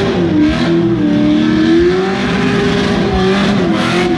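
Boosted LS1 V8 of a burnout car running at moderate revs, its pitch wavering up and down as the throttle is blipped.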